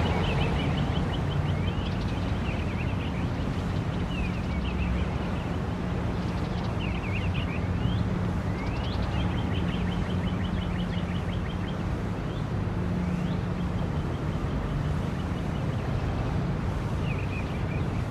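A songbird chirps repeatedly in short, quick sweeping phrases over a steady low rumble with an engine-like hum.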